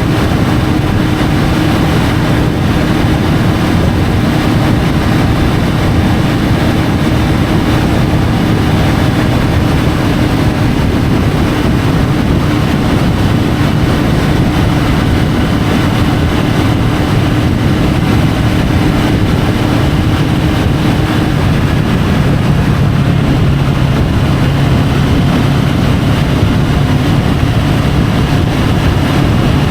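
Triumph Tiger 850 Sport's three-cylinder engine running steadily while riding, under a constant rush of wind noise on the bike-mounted camera. About three quarters of the way through, the engine note drops to a lower steady pitch.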